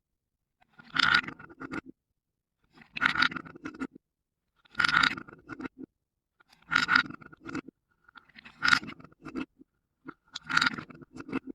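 Marbles rolling and clattering along a marble run track in short, near-identical bursts about every two seconds, each with a sharp start and a rattling tail.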